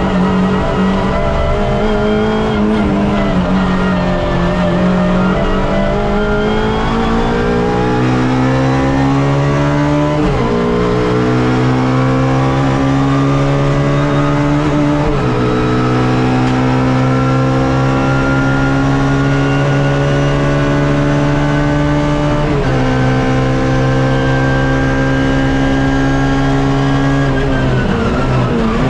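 Suzuki Swift race car's engine heard from inside the car under hard acceleration: the pitch eases down at first, then climbs through the revs with sharp drops at three upshifts, about 10, 15 and 23 seconds in, before falling away near the end as the driver lifts and brakes.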